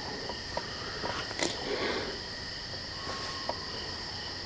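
Night insects trilling steadily in several high, even bands, with a faint short whistle about three seconds in and a few soft clicks. The whistle is the unexplained call the listeners hear moving around them and take for a bird-like whistle they cannot identify.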